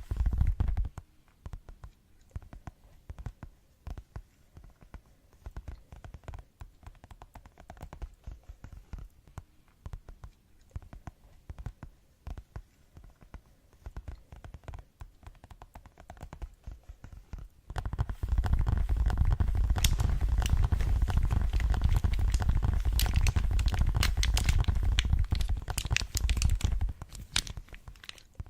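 Fast ASMR tapping close to the microphone: a dense stream of rapid light taps, fairly quiet at first, then much louder and fuller with a deep low thud under it for about nine seconds in the last third before easing off.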